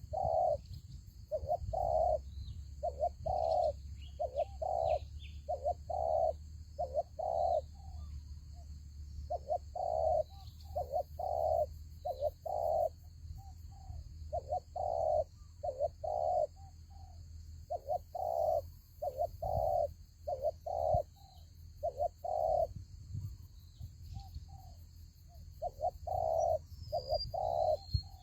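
Spotted doves cooing: repeated low hooting notes in phrases, with short pauses between phrases. A few thin high chirps from another bird come near the end.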